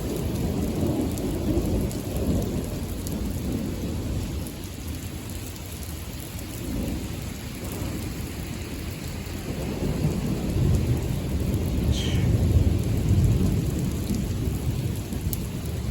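Thunder rumbling continuously over steady rain, the rumble swelling louder about two-thirds of the way through.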